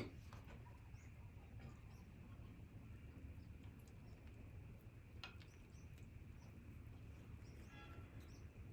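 Near silence: low room tone with a few faint light clicks, the clearest about five seconds in.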